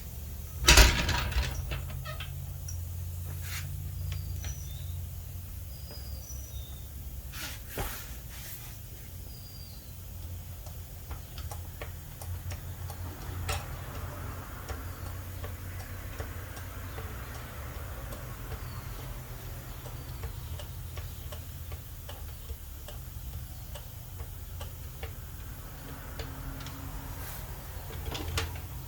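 Jacking and tool handling under a truck: scattered metallic clicks and knocks, the loudest about a second in, over a steady low hum. A few faint high chirps come in the first several seconds.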